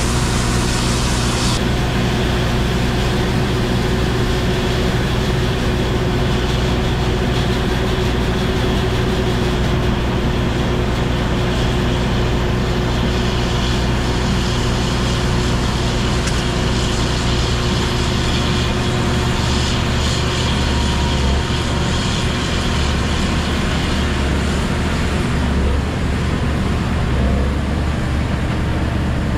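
Engine of a heavy farm machine running steadily under load, a constant drone with a steady hum over it. The hiss in the upper range drops back about a second and a half in, and the low drone shifts a little in the second half.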